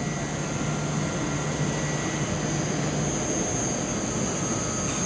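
Steady hum inside an Oka-type (81-760) Moscow metro car standing at a station, with a steady high whine from the train's equipment; a lower hum fades out about three seconds in.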